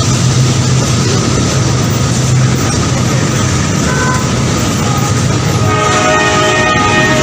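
Train running with a loud, steady rumble; about six seconds in its horn starts sounding, a held chord.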